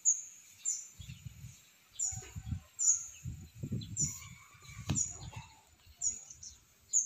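Small bird chirping: short, very high-pitched calls repeated about once a second, with low rumbling handling noise against the microphone in between.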